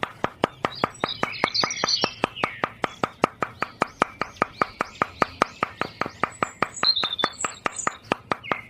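Steady rapid clicking, about five clicks a second, with high bird-like chirps over it.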